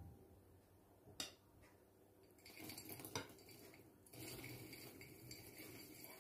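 Faint kitchen handling sounds: dishes and cutlery clinking, with two sharp clinks about a second and about three seconds in and softer handling noise over the second half.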